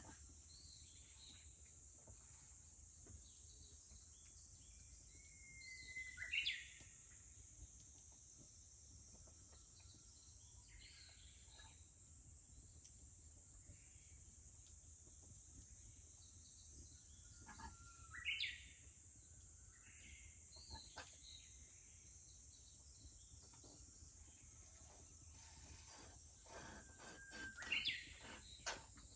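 A Japanese bush warbler (uguisu) sings its "hoh-hokekyo" song three times, about twelve seconds apart: a held whistle, then a quick rising flourish. Under it runs a steady high drone of cicadas, and faint crackles come near the end.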